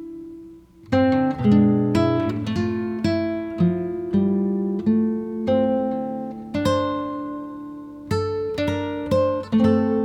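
Background music: acoustic guitar playing plucked notes and chords, which die away briefly just before a second in and then resume.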